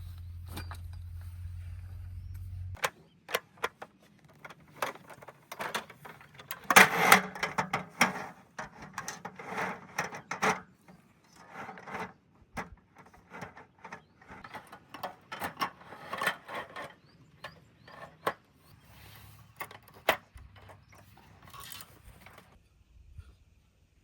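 Irregular clicks, knocks and rubbing scrapes of objects being handled, busiest in two stretches, with a low steady hum at the start that cuts off about three seconds in.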